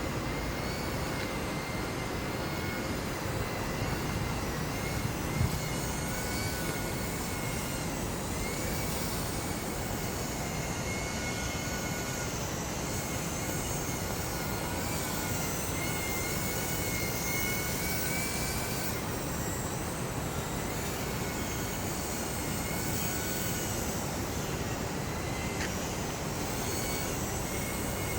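Small RC model plane's electric motor and propeller whining, the pitch wavering up and down as it flies, over heavy wind noise on the microphone. A single brief knock about five seconds in.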